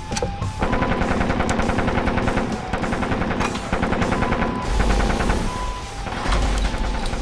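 A fast, continuous rattle of many sharp hits a second, like rapid gunfire, with steady tones layered over it and deep low rumbles coming in about five and six seconds in.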